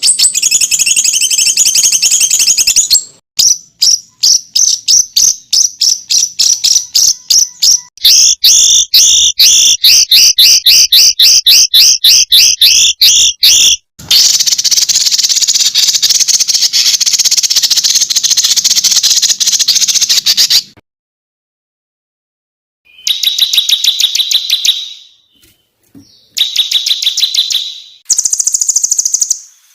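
Recorded songbird song used as masteran tutor audio for competition birds: rapid, dense 'tembakan' trills of high-pitched repeated notes, in several back-to-back clips that start and stop abruptly, with about two seconds of silence around two-thirds of the way in.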